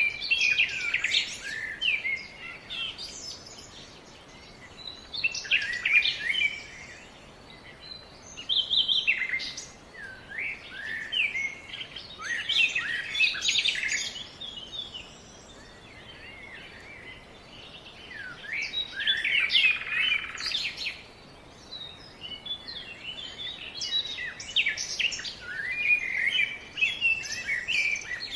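Birds chirping and singing in bursts every few seconds, fast high twittering phrases with short quiet gaps between, over a faint steady background hiss.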